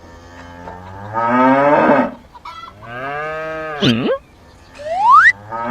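Cow mooing twice in long calls, the second ending in a sharp drop in pitch, followed by a short rising whistle near the end.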